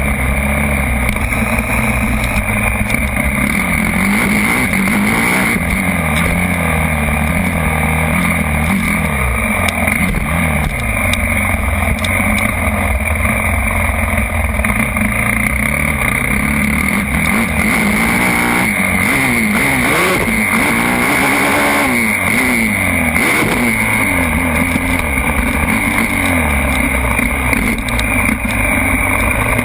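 Motocross bike engine revving hard and easing off again and again, its pitch rising and falling with the throttle.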